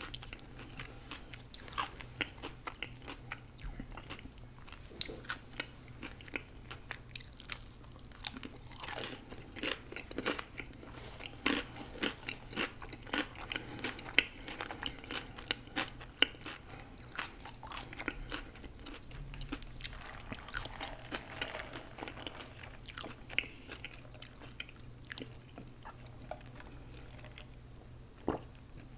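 Close-miked eating: a person biting, crunching and chewing food, with many irregular sharp crunches and wet mouth clicks.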